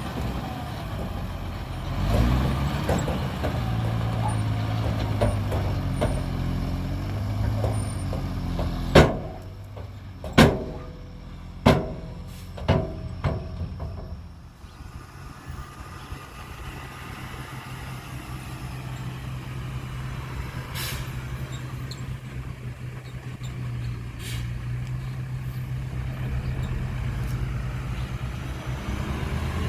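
Heavy diesel earthmoving machinery running, its engine changing pitch in the first few seconds. About nine seconds in come four loud bangs a second or so apart, each ringing briefly, after which the engine runs on steadily.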